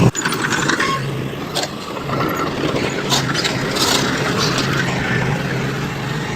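Heavy diesel machinery engine running steadily, with a few short knocks or clanks.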